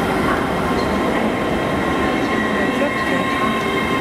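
GWR Class 800 bi-mode train, unit 800 003, running past along the platform: a steady rumble and rail noise with a thin, steady whine above it.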